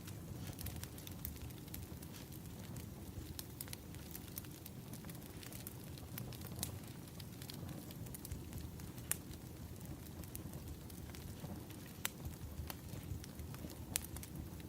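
Wood fire burning: irregular sharp pops and snaps of crackling firewood over a steady low rumble, with a few louder pops scattered through.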